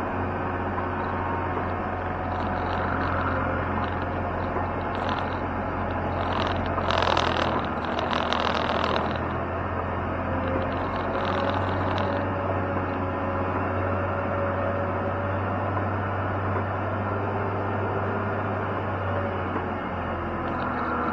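Heavy snow-clearing machine's engine running steadily at a constant pitch, with a louder rushing, scraping noise for about two seconds around the middle.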